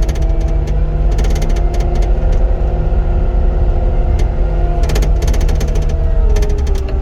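Cat 259D compact track loader's diesel engine running steadily under working load, its pitch dropping slightly near the end, with bursts of clicks and rattles.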